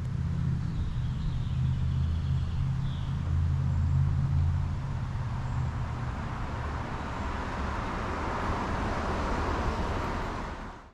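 A car going by: a low, steady engine hum for the first half, giving way to a growing hiss of tyre noise on the road.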